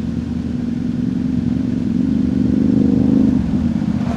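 2025 Yamaha R7's parallel-twin engine through a Yoshimura AT2 full exhaust, running under throttle: the engine note climbs and grows louder, then drops back about three and a half seconds in.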